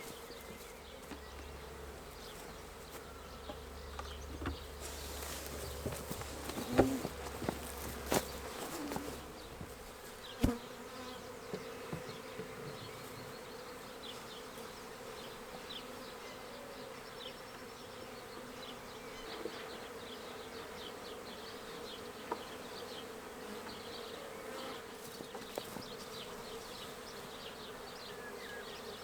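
A swarm of honey bees buzzing, a steady hum of many bees in flight. A few clicks and knocks sound between about four and eleven seconds in.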